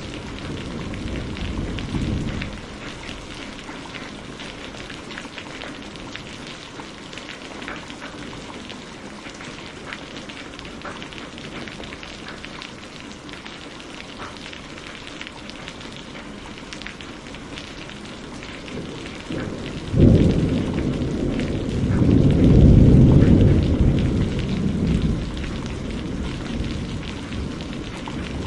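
Steady heavy rain pattering, with rolls of thunder. A rumble fades out in the first couple of seconds, then a sudden loud thunderclap about two-thirds of the way in rumbles on for several seconds and dies away.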